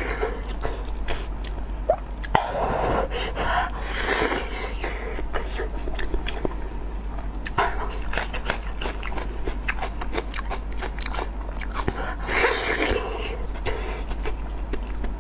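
Close-up sounds of a person biting and chewing a large piece of soft, sauce-coated meat: a run of wet clicks and smacks, with a few louder slurping swells along the way.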